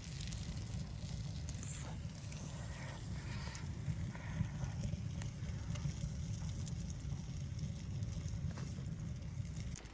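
Wood fire crackling in scattered sharp clicks over a steady low rumble.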